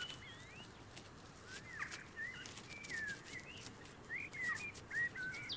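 Faint birdsong: a series of short whistled and chirped notes, some sliding up and down in pitch, over a soft background hiss.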